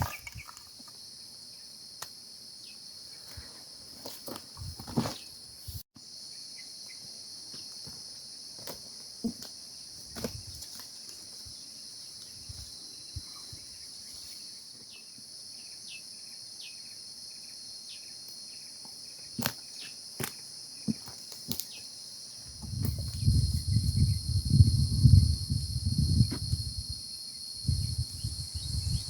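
Insect chorus, a steady high-pitched buzz, with scattered small clicks and rustles. In the last quarter a loud, irregular low rumble comes in.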